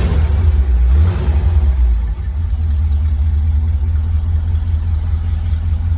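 1957 Ford Thunderbird's V8 engine running, swelling briefly at the start, then settling to a steady idle.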